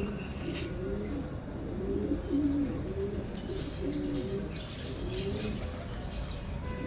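Pigeons cooing over and over in low rising-and-falling coos, with faint chirping from small cage birds behind.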